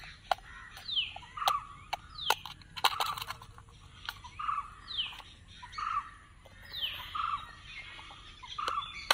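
Birds calling: a run of short calls repeating about once a second, with a few falling whistled notes, over scattered sharp clicks.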